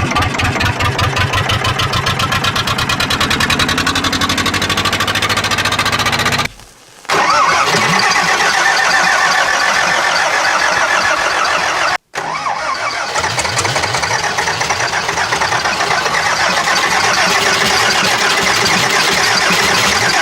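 Engine being cold-started: it turns over with even, rapid pulses, then runs steadily. The sound cuts out briefly about six and a half seconds in and again about twelve seconds in.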